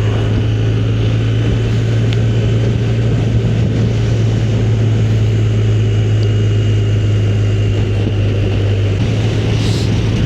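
Motorcycle engine running at a steady cruising speed as a constant low drone, under steady wind and road rush.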